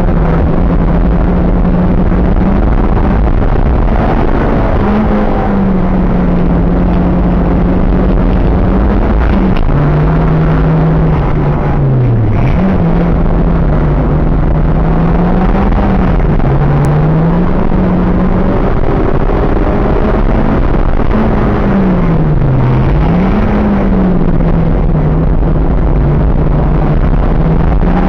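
Nissan Pulsar's engine working hard on a sprint circuit, heard from inside the cabin over loud road and tyre noise. Its pitch falls and climbs again several times as the car goes through a series of corners, with the deepest drop and sharp rise about twelve seconds in.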